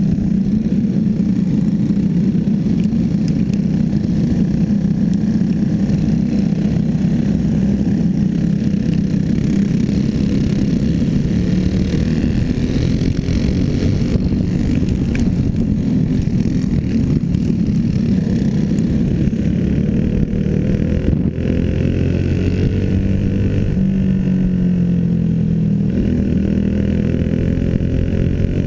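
Clone-class racing motorcycles' engines running hard in a heat race, a steady drone of several engines. From about 20 s in, one nearer engine stands out, its pitch rising and falling as it revs.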